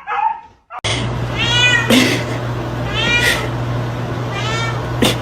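A domestic cat meowing three times, about a second and a half apart, over a steady low hum, with a sharp click near the end.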